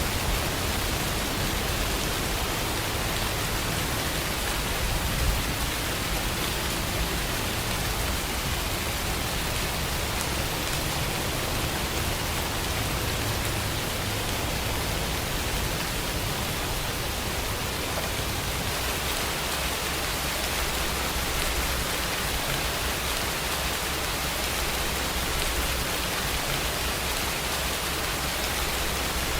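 Steady rain, a dense even hiss with no let-up, with a low rumble underneath.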